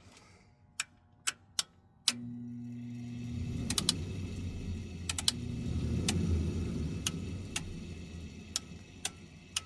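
Furnace starting up after its control board was rewired: a few sharp relay clicks, then a motor starts with a low hum about two seconds in and spins up into a steady rush of air, with more scattered clicks. The start-up runs through without the E41 auto-configuration error.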